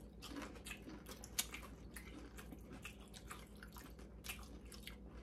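Faint, irregular crunching of corn tortilla chips being chewed, a quick scatter of small crackles.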